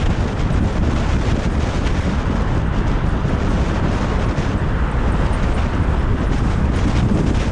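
Strong gusting wind buffeting the microphone of a moving electric scooter's camera: a loud, steady low rumble of wind noise.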